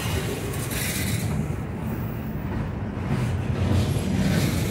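Norfolk Southern freight train rolling past: a steady low rumble of the cars, with short rushes of hiss every second or two.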